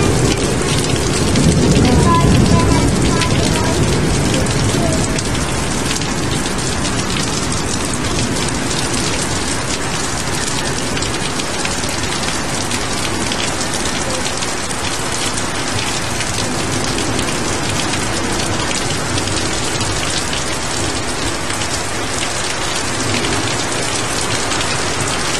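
Heavy rain pouring down steadily in a thunderstorm, with a low rumble of thunder over the first few seconds.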